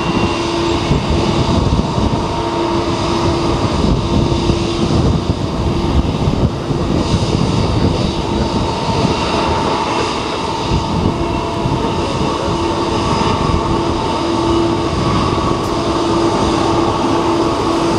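Strong gusting typhoon wind buffeting the microphone in a continuous, uneven rumble, with a steady hum running underneath it.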